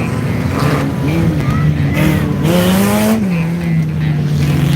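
Stock car engines running on the track; one engine note climbs as a car accelerates, peaks about three seconds in, then drops back, with a burst of hissing tyre or track noise around the peak.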